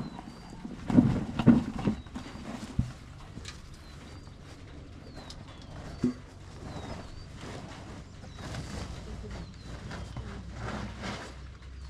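Birds calling outdoors, short high chirps scattered throughout, with a few dull thumps about a second in.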